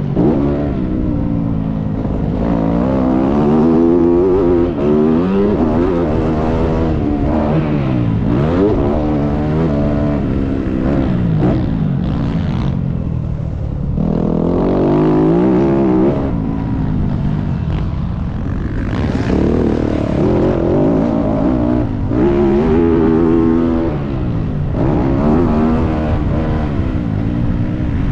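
Motocross dirt bike engine being ridden around a track, revving up and down repeatedly as the rider works the throttle through the corners and straights, easing off briefly about halfway through.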